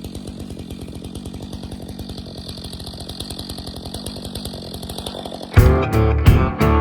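Stihl 462C two-stroke chainsaw on its stock muffler, running steadily under load while cutting through a log. Near the end, loud music with guitar cuts in abruptly and drowns it out.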